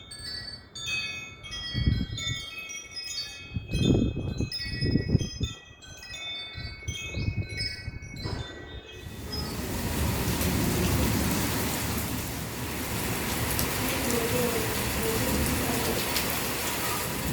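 Metal wind chimes tinkling, ringing tones overlapping, with a few low buffets of wind. About nine seconds in, heavy monsoon rain takes over as a steady downpour.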